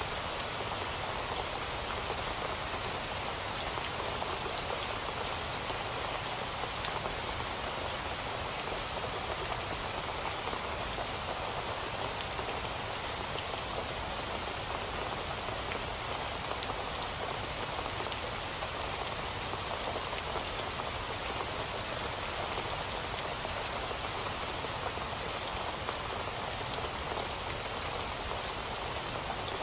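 Steady rain falling, a continuous hiss of many small drop ticks.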